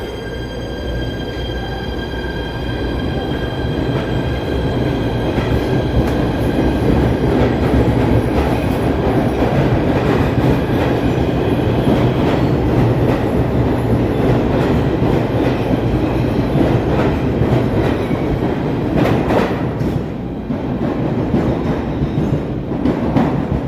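PATH rapid-transit train pulling out of the station: a steady high whine over a rumble of wheels on rail that builds as the cars go past, easing off near the end with a few sharp clicks of wheels over rail joints.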